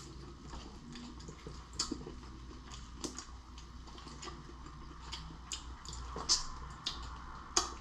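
Cooked lobster being broken open by hand and its meat pulled from the shell: scattered small cracks and clicks with wet squishing, a few sharper cracks near the end.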